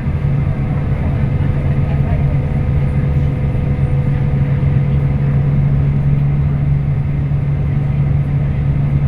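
Scania K340IB coach's diesel engine running at a steady speed, a constant low drone with road noise as the bus cruises, heard on board.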